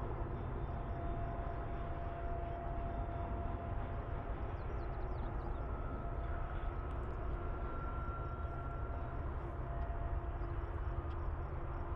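Freight train of double-stack container cars rolling steadily past: a continuous rumble of wheels on rail, with faint steady whining tones above it.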